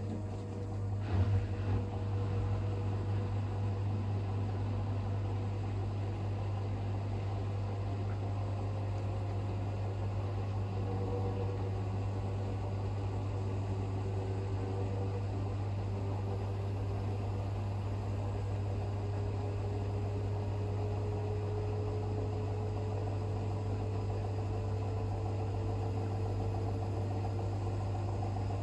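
Hoover H-WASH 500 washing machine running mid-cycle: a steady low electric hum sets in at the start, with a click about a second in, and carries on evenly.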